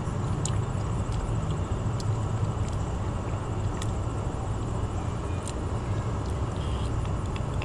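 Chewing food with dentures: a few sparse faint clicks over a steady low rumble in the background.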